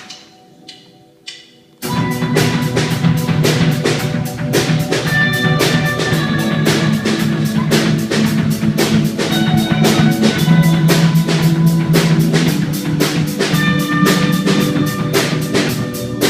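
Live worship band's instrumental intro. After a few faint clicks, drum kit and band come in together about two seconds in, with a busy, steady drum beat over held bass and chords.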